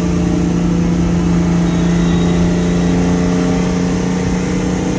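Infiniti G37's 3.7-litre V6 with its muffler deleted, running at steady high revs under load with a loud exhaust drone, over tyre and wind noise.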